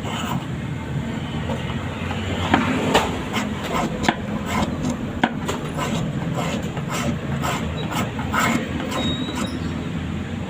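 A steady low machine hum runs throughout, with irregular sharp clicks and knocks of wood being handled and worked, typical of bird-cage woodworking.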